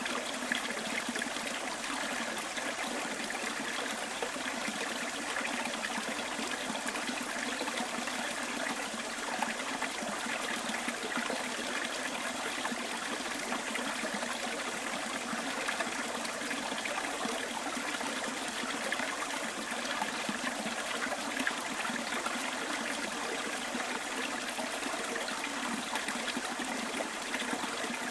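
Small bush stream flowing steadily, a continuous trickling and burbling of running water.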